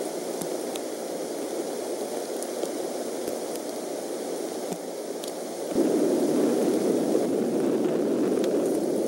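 Rain falling on the eagle nest and surrounding trees, a steady hiss with a few light drop ticks, picked up by the nest camera's microphone; it suddenly gets louder about six seconds in.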